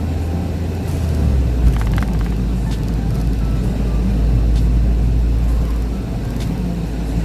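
Car driving along: a steady low engine and road drone, which shifts in pitch about a second and a half in, with a brief click at that moment.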